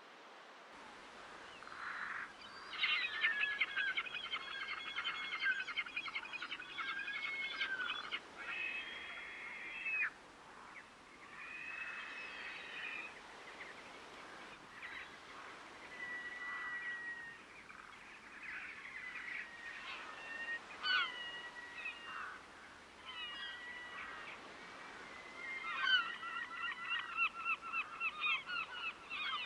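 Waterbirds calling: a rapid run of harsh repeated calls about two seconds in, single calls scattered through the middle, and another rapid run near the end.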